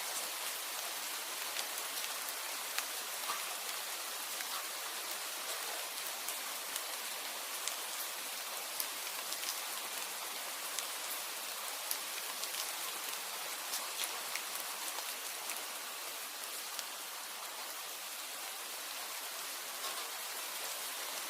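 Steady rain falling, an even hiss with many scattered sharp ticks.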